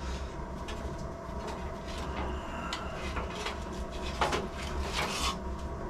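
Handling noises: a few light knocks and rustles, the clearest near the end, over a steady low hum.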